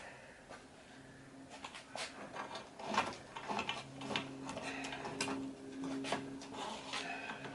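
Scattered clicks and knocks of small plastic and aluminium retractable-screen parts being handled and fitted into the housing, the sharpest knock about three seconds in, with a steady low hum coming in about four seconds in.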